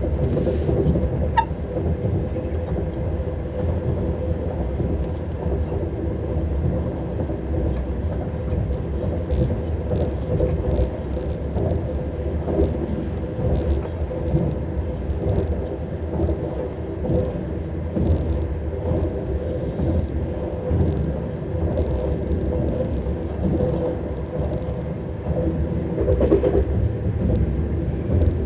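Lastochka (Siemens Desiro RUS) electric train running: a steady rumble of wheels and drive, with a constant hum and scattered short clicks.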